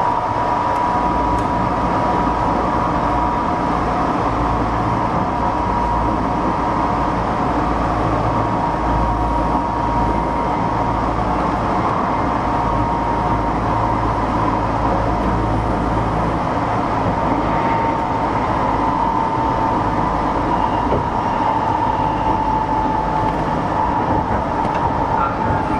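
Kintetsu 6620 series electric commuter train running between stations: a steady running rumble and rail noise with a thin, steady whine that sinks slightly near the end.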